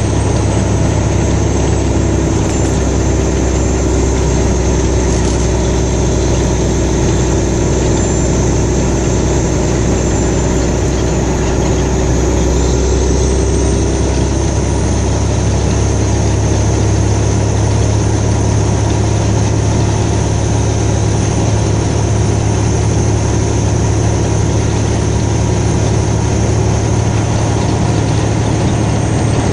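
Car engine and tyre noise, steady and loud from inside the cabin while driving along a road.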